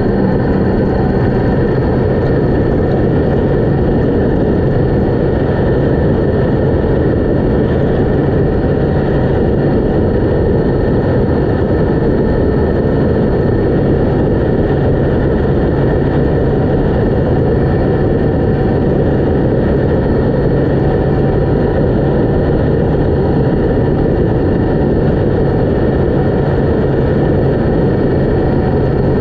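Yamaha MT-10 motorcycle's crossplane inline-four engine running at steady, low revs while riding, under a steady rush of wind and road noise.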